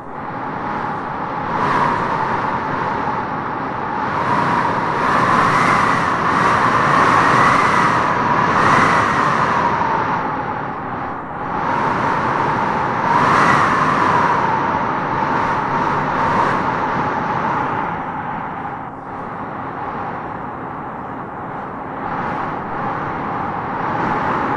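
Wind blowing in gusts: a steady rush that swells and eases, with a whistling howl that rises and falls in pitch. The howl is strongest from about five to ten seconds in and again around thirteen seconds.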